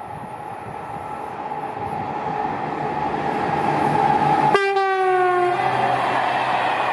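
SNCF CC 6500 electric locomotive and its train approaching and passing, the running noise growing steadily louder. About four and a half seconds in it sounds one short horn blast of about a second, its pitch dropping slightly as the locomotive goes by.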